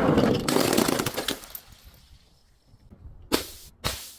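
Glass breaking and crunching: a dense crackle of shattering glass for about the first second and a half, then two sharp cracks near the end.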